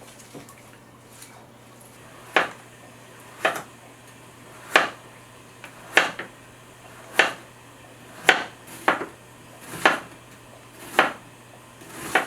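Kitchen knife striking a cutting board in slow, even strokes about once a second, ten in all from about two seconds in, as it slices through a block of acorn jelly. A faint steady low hum runs underneath.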